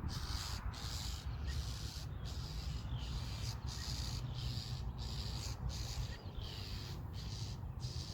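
Agitated birds giving harsh, rasping alarm calls, repeated steadily about once every 0.7 seconds, in reaction to a predator at their nest.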